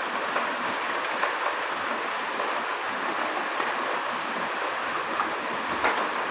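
Heavy rain falling steadily: an even hiss, with a few sharper drop taps.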